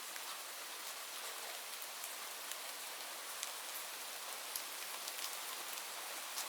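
Steady rain falling, an even hiss with individual drops ticking out here and there.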